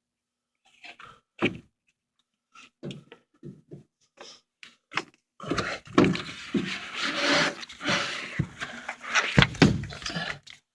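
A furnace filter being handled and slid out of its slot for inspection: a few separate knocks and clicks, then about five seconds of scraping and rattling with thumps.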